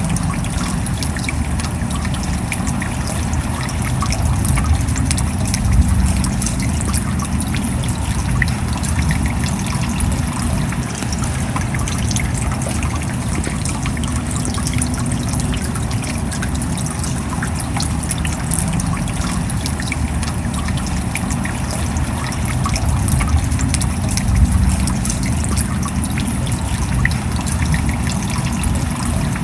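Steady rain: a dense patter of many small drop ticks over a low, even rumble of falling water, running at a constant level throughout.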